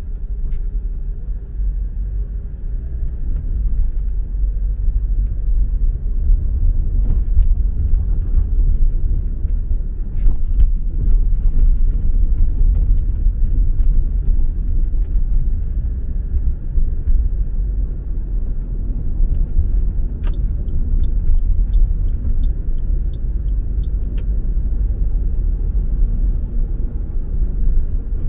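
Steady low rumble of a car driving on the road: engine and tyre noise. Two-thirds of the way through comes a short run of light, evenly spaced clicks, about two a second, for a few seconds.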